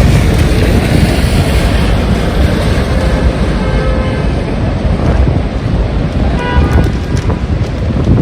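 Strong gusty wind buffeting the microphone with a loud low rumble, over the hiss of heavy rain; faint pitched sounds rise briefly out of it midway and again about two-thirds of the way in.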